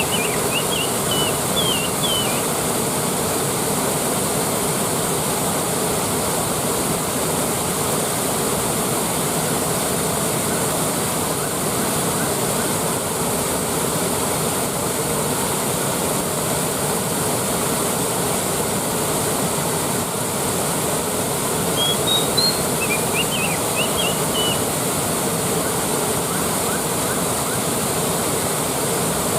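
Waterfall rushing steadily, a dense even roar of falling water. Short high chirps come through it briefly near the start and again about 22 seconds in.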